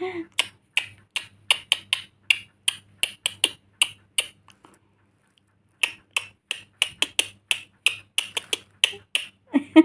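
Sharp clicks at a steady beat of about three a second, stopping for about a second and a half midway and then resuming.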